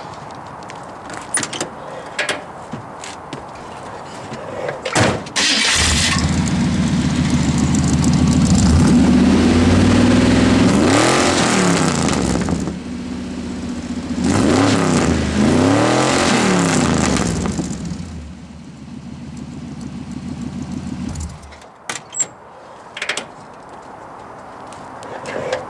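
Car engine breathing through a Cherry Bomb glass-pack side exhaust. It starts about five seconds in, after a few clicks, idles, is revved up and back down twice, then is shut off near the end. The note is deep without much snap, crackle or pop.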